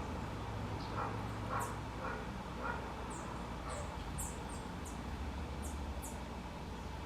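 A feeding flock of green-headed tanagers and blue dacnises giving short, very high, thin call notes in a quick series over the middle of the stretch. A few lower notes come in the first three seconds, over a steady low hum.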